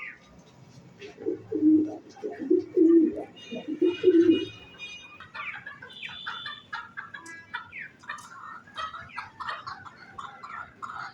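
Kept birds calling: a run of low, repeated warbling calls for about three seconds, then many high, rapid chirps that carry on to the end.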